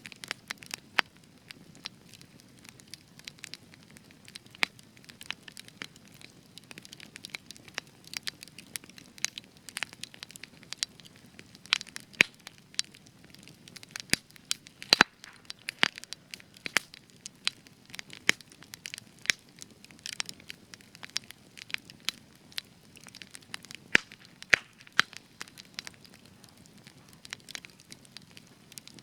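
Spruce wood fire crackling, with irregular sharp pops and snaps over a soft low rustle of flame. A few louder pops stand out, around twelve, fifteen and twenty-four seconds in.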